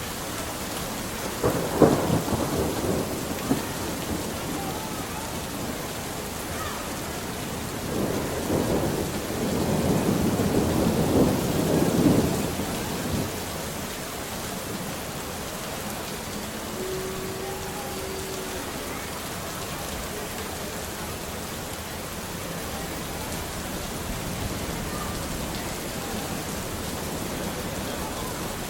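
Steady rain falling throughout, with thunder: a sharp crack about two seconds in, the loudest moment, then a longer rumble from about eight to thirteen seconds that dies away.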